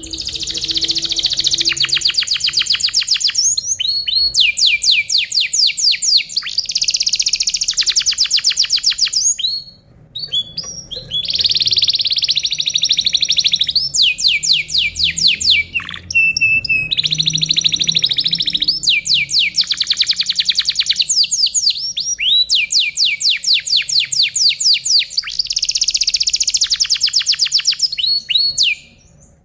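Domestic canary singing a long, near-continuous song of fast trills and rolls, with a brief pause about ten seconds in.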